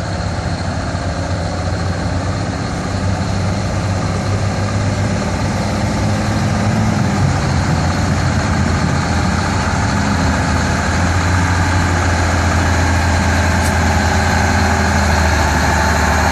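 M923A1 military 5-ton truck's diesel engine running hard under load while pulling the sled. The steady engine drone grows gradually louder through the pull.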